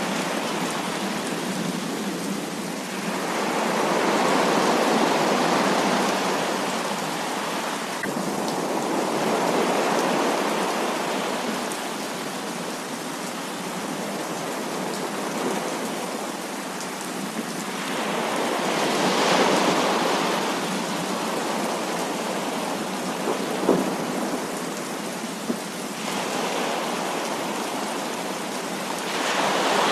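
Heavy rain falling steadily, swelling louder and easing again in several slow waves, with two sharp ticks a couple of seconds apart past the middle.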